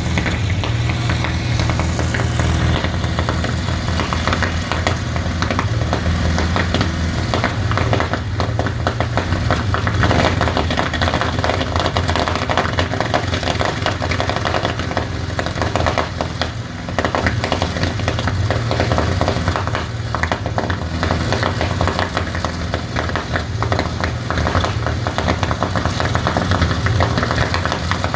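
Rolls-Royce Merlin V12 aero engine running steadily, a dense rapid exhaust pulsing over a deep drone, with a brief drop in level about 17 seconds in.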